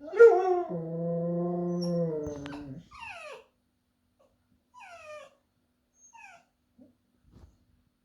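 Husky-cross pomsky dog howling: one long held howl of nearly three seconds, then three short falling whines, each a little quieter.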